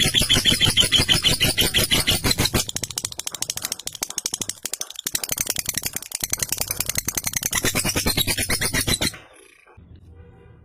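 Lovebird chattering in a long, rapid trill (ngekek), a fast rattle of notes that briefly falters midway and stops about nine seconds in.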